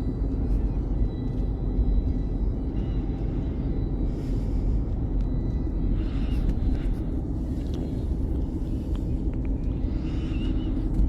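Steady low road rumble inside a moving car's cabin, with a few faint light ticks on the car.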